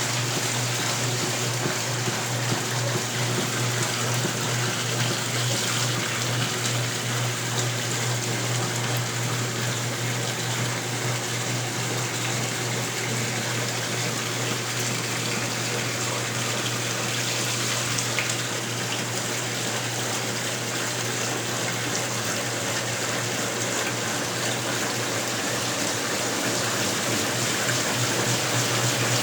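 1977 Westinghouse Lavínia washing machine running: a steady rush of water over a constant low motor hum.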